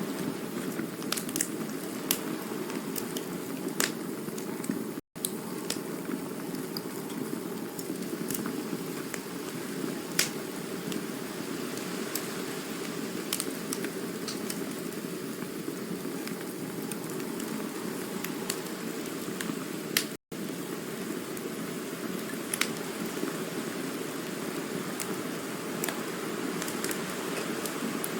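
Campfire burning with a steady low hiss and scattered sharp crackles and pops from the burning wood. The sound cuts out for an instant twice, about 5 and 20 seconds in.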